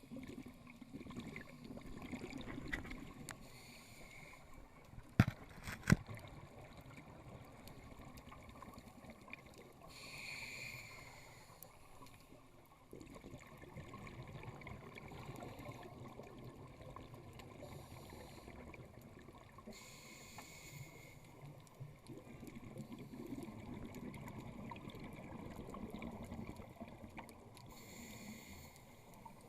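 Scuba diver breathing through a regulator underwater: a short hiss on each inhale, about every nine seconds, followed by a long low rush of exhaled bubbles. Two sharp clicks, about five and six seconds in, are the loudest sounds.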